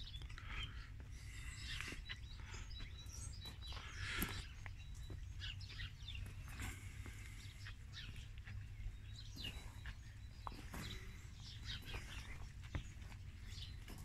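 Small birds chirping and twittering here and there, with short high calls and a thin whistle, over a steady low rumble.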